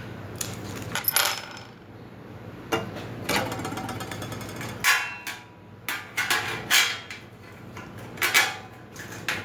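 Irregular knocks and clatter of grill parts and tools being handled and fitted together during assembly, about a dozen sharp hits spaced unevenly.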